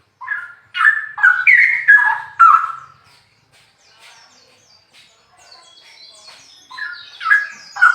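Straw-headed bulbul (cucak rowo) singing: a loud phrase of rich, gliding whistled notes for about the first three seconds, quieter higher twittering in the middle, then a second loud phrase starting near the end.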